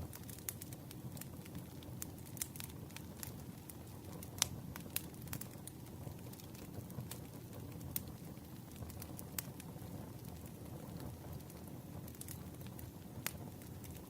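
Campfire burning: wood crackling and popping in irregular sharp snaps over a low steady rumble of flame.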